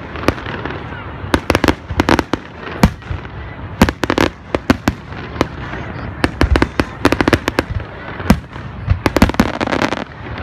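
Professional aerial fireworks display: shells bursting in quick clusters of sharp bangs every second or so, over a constant noisy wash.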